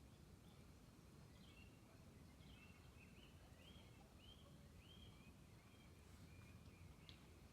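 A songbird calling faintly: a run of short, arched, whistled notes, one after another, over a low steady outdoor rumble, with a single click near the end.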